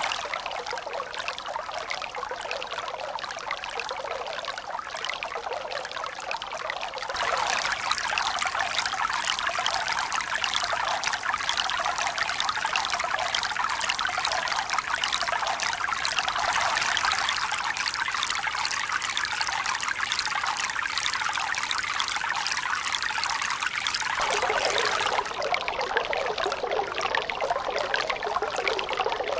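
Steady rush of running, pouring water, with abrupt shifts in its tone about seven seconds in and again near the end.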